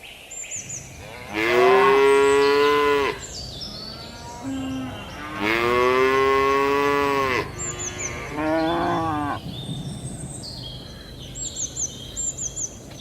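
Cattle mooing: two long, loud moos and a shorter one near the middle, with small birds chirping in quick high runs of three between the calls.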